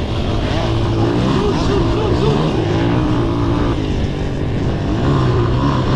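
Honda XL125S single-cylinder four-stroke dirt bike engine revving up and down while ridden on a dirt track, its pitch rising and falling with the throttle, with wind rush on the onboard microphone.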